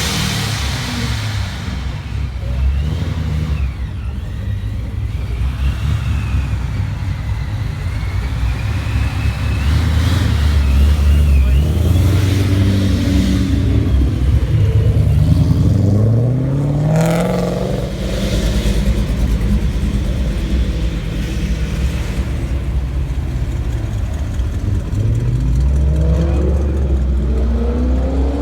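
Car engines running with a deep rumble, revving up in rising sweeps as a car accelerates, about fifteen seconds in and again near the end.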